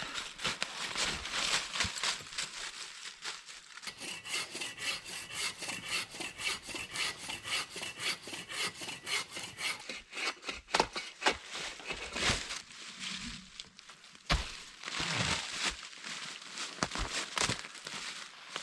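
Wood being worked with a hand tool: a run of quick, even strokes lasting several seconds, then a few sharp knocks and rubbing of wood.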